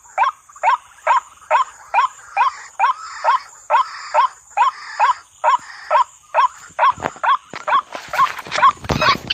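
White-breasted waterhen (ruak-ruak) lure recording: short calls, each rising in pitch, repeated about two a second. Near the end the calls come denser and louder.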